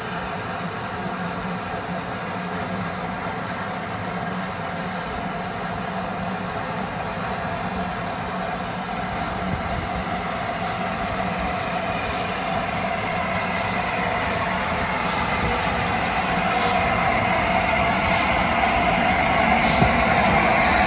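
Train running on the rails, growing steadily louder, with a few faint clicks in the second half.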